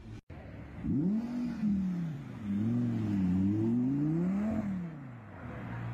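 Audi R8 sports car engine revving as the car accelerates away, its pitch rising and falling several times. The last and highest climb comes about four and a half seconds in, then the pitch drops away.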